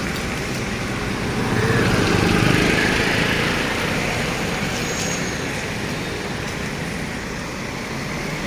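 Road traffic noise: engines and tyres of slow-moving vehicles, with one passing close and loudest about two to three seconds in.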